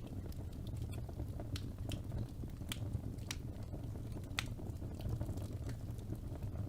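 Fire burning in a fireplace: a steady low rumble with scattered sharp crackles and pops, one louder pop a little past the middle.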